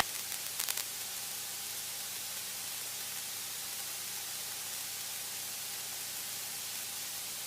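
Steady static hiss on the cockpit intercom audio of a taxiing light aircraft, with a faint low hum underneath and a few light clicks about half a second in.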